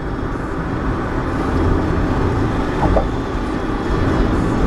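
Steady road and engine noise of a moving car heard from inside the cabin, a low rumble that slowly grows louder.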